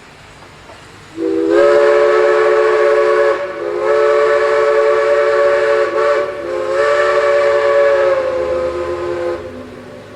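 Narrow-gauge steam locomotive's chime whistle blown in three long blasts, several tones sounding together as one chord, with short breaks between the blasts.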